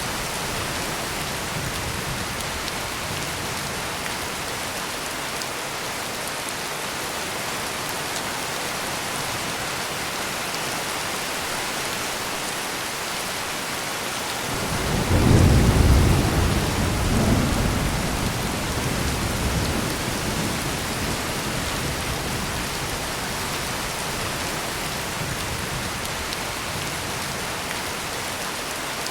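Heavy rain pouring steadily, with one roll of thunder about halfway through that builds quickly, rumbles on in two smaller waves and fades away over several seconds.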